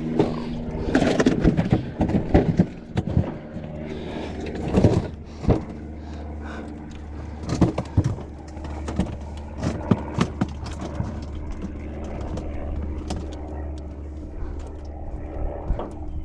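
Knocks, clatter and scrapes in a small aluminum boat as a freshly caught catfish and the tackle are handled. The loudest bursts come in the first few seconds, with scattered knocks later. A steady low engine hum runs underneath.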